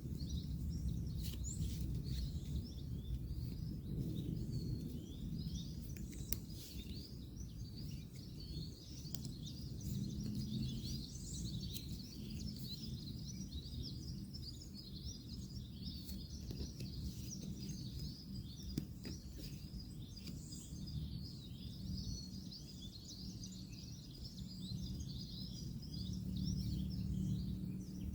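Many small birds chirping continuously over a steady low rumble of distant road traffic, with a couple of faint clicks.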